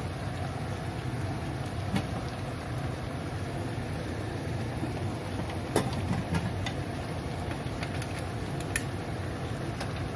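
Prawns cooking in bubbling chili sauce and oil in a wok: a steady sizzle and bubbling over a low steady rumble, with a few sharp pops of spitting oil, the loudest about six seconds in.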